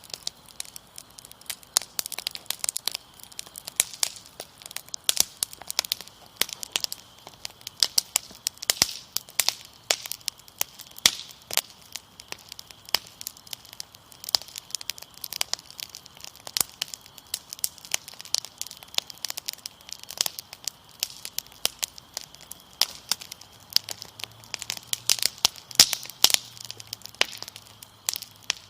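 Wood fire crackling steadily with frequent sharp pops and snaps, over a continuous high cricket trill.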